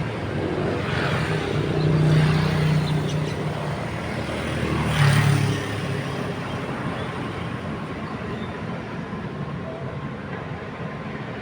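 Amphibious excavator's diesel engine running steadily and swelling louder twice, about two seconds in and again about five seconds in, over a steady rushing noise.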